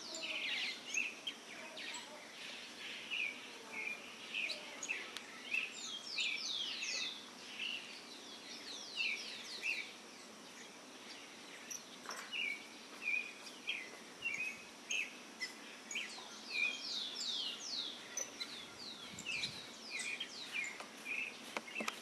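Birds chirping: many short, falling notes in quick, irregular bouts, with a lull of a couple of seconds about halfway, over a steady outdoor background hiss.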